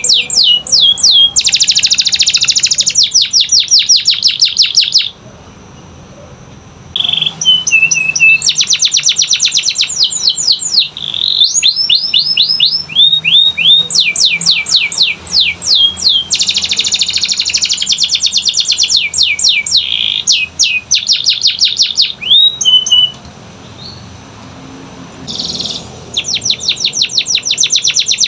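Domestic canary singing: fast trills and runs of quick down-slurred whistles, high-pitched, with two short pauses, one about five seconds in and one near the end.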